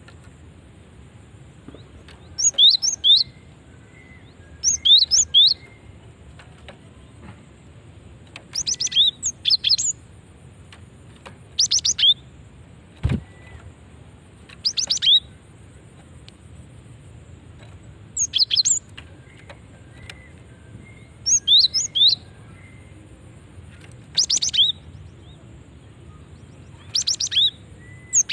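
Female cinereous tit (gelatik batu) calling: short bursts of rapid, high chirping notes, repeated about every two to three seconds. This is the female's call to males, used as a lure to set other tits calling.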